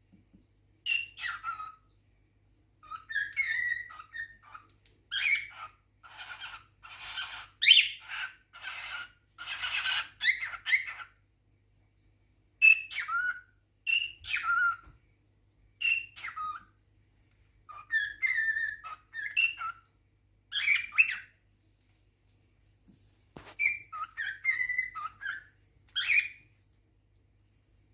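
Male cockatiel singing its courtship song in short phrases of chirps and gliding whistles. It breaks into a denser run of harsh chattering calls from about five to eleven seconds in.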